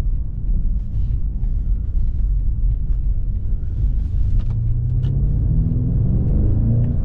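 BMW M5 Competition's twin-turbo V8 and road rumble while driving: a steady low rumble at first, then from about four seconds in the engine note climbs steadily as the car accelerates.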